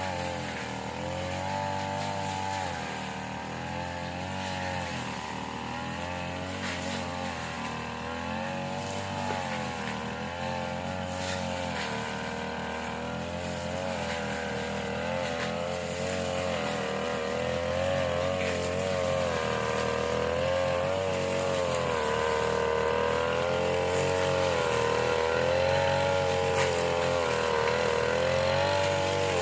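Small petrol engine of a grass-cutting machine running at high speed, its pitch wavering up and down continuously. It grows somewhat louder in the second half.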